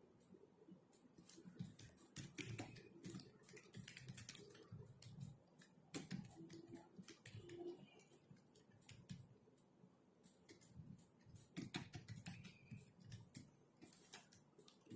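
Faint typing on a computer keyboard: irregular runs of quick keystrokes with short pauses, busiest near the start, about the middle and about three quarters of the way through.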